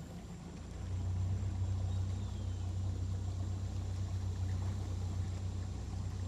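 Boat motor running steadily under way, a low drone that gets louder about a second in.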